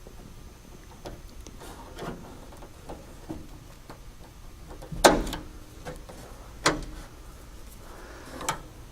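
Friction-fit clips of a belt line weatherstrip being pushed into the door's holes: small scattered clicks and handling noises, with one solid click about five seconds in and a smaller one a moment later as a clip pops in.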